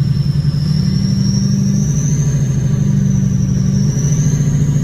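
Diesel pickup truck engine running steadily under load while plowing through snow drifts, heard from inside the cab, with a thin high whistle over it that drifts slowly up and down in pitch.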